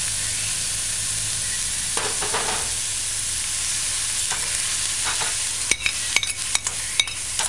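Ackee and onions frying in oil in a stainless steel skillet, a tablespoon of water just added, with a steady sizzling hiss. In the last couple of seconds a spoon clinks and scrapes against a plate and the pan as diced greens are pushed in.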